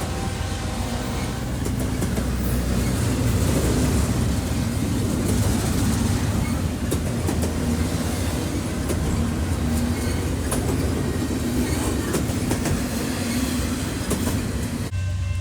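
Train rolling past at close range: a steady low rumble with wheels clattering and clicking over the rails. The clatter drops away abruptly near the end.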